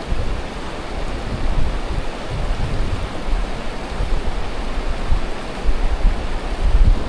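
Strong gusty wind blowing across the microphone: a steady rushing noise with uneven low rumbling buffets.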